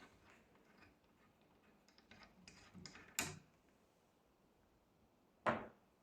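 A few light clicks and knocks of objects being handled, ending in two sharper knocks about three and five and a half seconds in.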